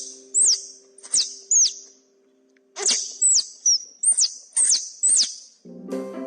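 An animal's short, very high squeaks, each sliding sharply down in pitch, about ten in quick succession with a pause of about a second near the middle.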